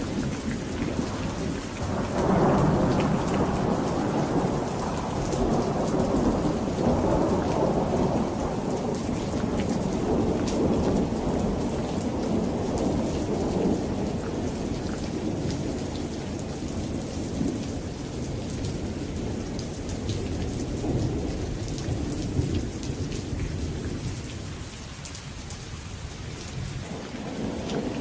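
Steady rain falling, with long rolls of thunder. A loud rumble builds about two seconds in and slowly dies away over the next dozen seconds or so, and another starts to swell near the end.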